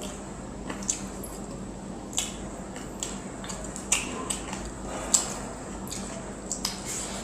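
Close, wet eating sounds of chicken masala and rice being chewed: squelching with sharp smacks and clicks about once a second, over a faint steady hum.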